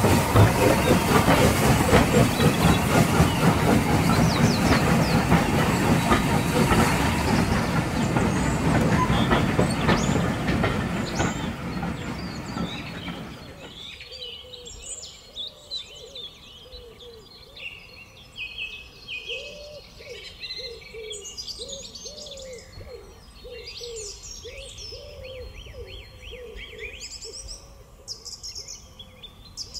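Train carriages rolling past over the rails, wheels clattering, the noise dying away about thirteen seconds in. Birds then sing, with a repeated lower call among the chirps.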